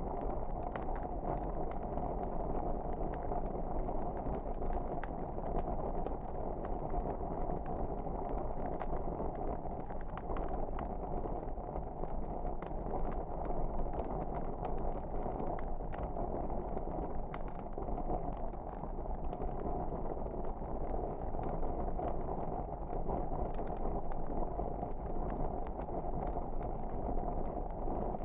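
Wood fire burning in a fireplace: a steady low rumble of flames with many small, sharp crackles and pops scattered irregularly throughout.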